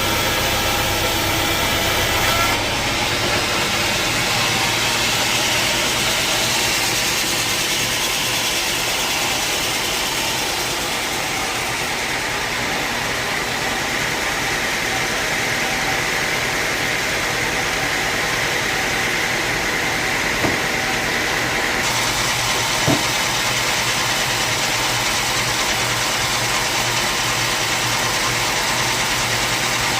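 Sawmill saw and its machinery running steadily, a continuous mechanical noise that shifts abruptly in character a few times, with two brief knocks about two-thirds of the way through.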